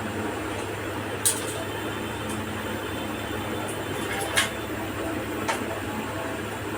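Steady low electrical hum, as from a voltage stabilizer's transformer, with three short sharp clicks: about a second in, past four seconds, and again a second later.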